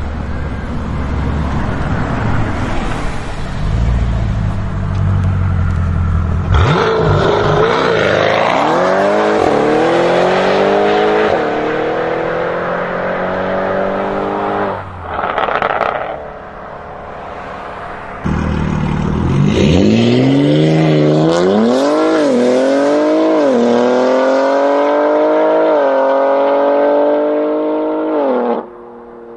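Supercar engines accelerating hard. A low rumble at first, then a rising engine note that drops back briefly at each gear change. A second run starts abruptly about two-thirds of the way through.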